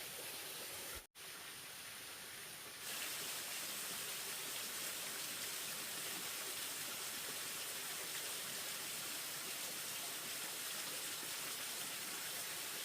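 Steady rushing noise with no distinct events, cut off for an instant about a second in and coming back louder and brighter just under three seconds in.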